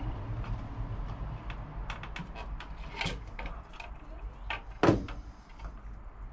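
Small clicks and rubbing from an electrical cable being pulled and worked at as its outer sheath is stripped, with one sharp click about five seconds in.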